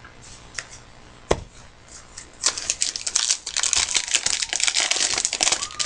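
Wrapper of a trading-card pack crinkling as it is handled and torn open. There is a sharp knock about a second in, then a dense crackle for the last three seconds or so.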